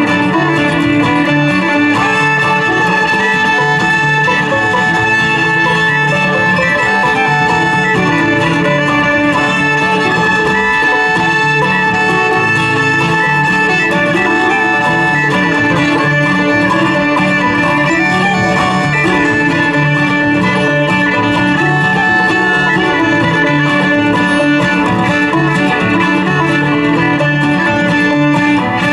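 Acoustic string band playing an old-time fiddle tune, with fiddle over strummed guitar and banjo.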